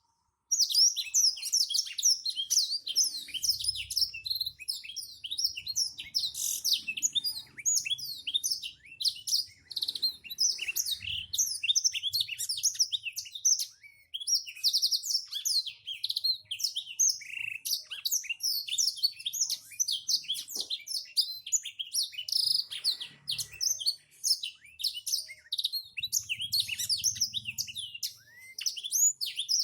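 Black-throated canary (blackthroat) singing a long, rapid, unbroken twittering song of quick high notes, with only a brief break about halfway through.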